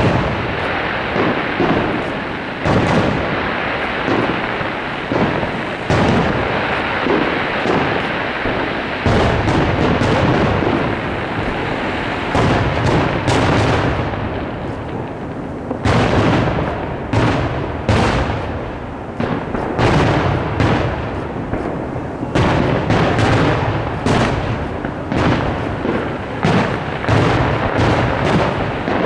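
Aerial firework shells bursting in rapid succession: a continuous rolling rumble of booms with many sharp reports close together, densest in the second half.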